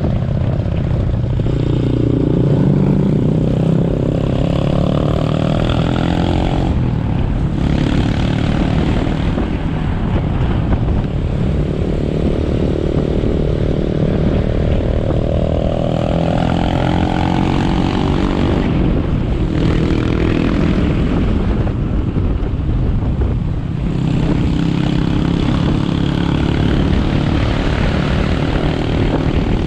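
Motorcycle engine heard from the rider's seat, its pitch climbing steadily under acceleration and falling away about seven, nineteen and twenty-four seconds in before climbing again, over steady road noise.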